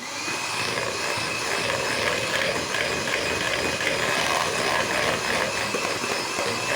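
Electric mixer switched on and running steadily, beating cream, with a constant high whine over its motor noise.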